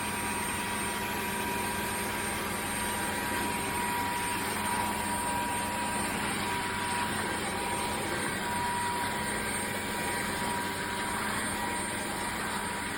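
Dreame H12 Pro cordless wet-dry vacuum mop running steadily in auto mode: an even motor whine over a rushing hiss of air.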